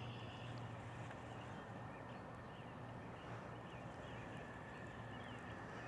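Faint outdoor ambience by a river: a steady low hum and a thin steady high tone, with scattered faint chirps or ticks.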